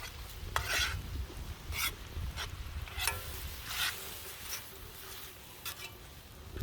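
A utensil scraping and stirring in a pan of food cooking over a campfire, in about eight short, irregular strokes, with sizzling underneath.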